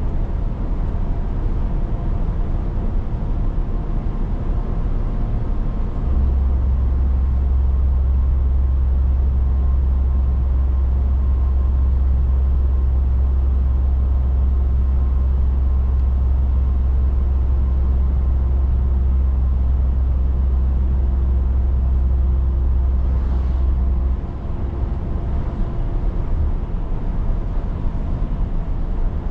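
Scania 500S truck driving along, its engine running steadily under road noise. A strong deep hum joins about six seconds in and cuts off about twenty-four seconds in.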